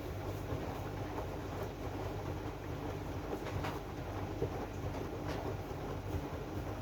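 AEG washing machine running its drum-clean cycle: a steady low hum and rumble, with a few faint swishes.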